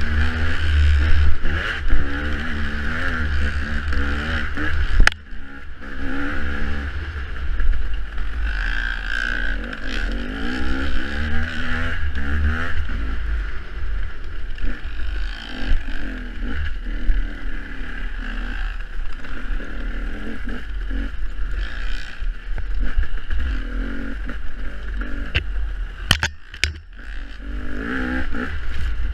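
Off-road dirt bike engine revving up and down as it is ridden over a rough trail, with heavy low rumble from wind or buffeting on the microphone. There is a sharp knock about five seconds in and two more near the end.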